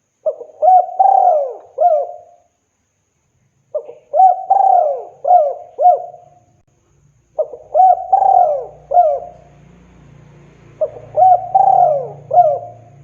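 Spotted dove (tekukur) cooing: four repeated phrases of several quick coos each, one phrase about every three and a half seconds. It is a male's call to a female.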